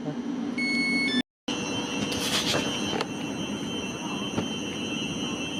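Electric train running through the station: a steady rush of noise with a constant high-pitched whine. The sound cuts out briefly about a second in.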